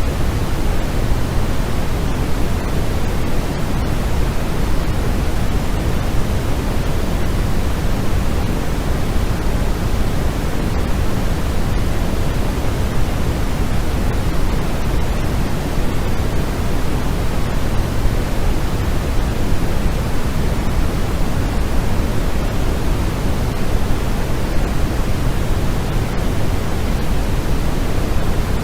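Steady synthetic white-noise track for sleep: an even, unchanging hiss, heavier in the low end than in the treble.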